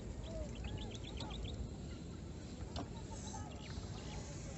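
Birds calling in the distance: a quick run of short, high chirps about a second in, then a few scattered call notes, over steady low background noise.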